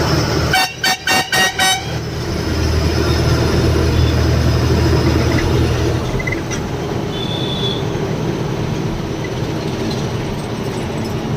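A vehicle horn sounds about five short toots in quick succession, then gives way to the steady running of a truck engine and road noise.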